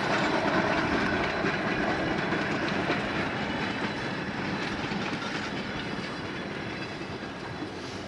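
Freight cars of a narrow-gauge steam train rolling past, their wheels clacking over the rail joints, fading steadily as the train moves away.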